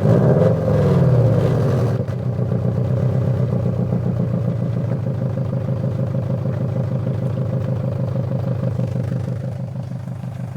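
Exhaust of a Subaru Forester Turbo's turbocharged flat-four boxer engine: a throttle blip, revs rising and falling over the first two seconds, then settling into a steady idle with an even pulsing beat that fades slightly near the end.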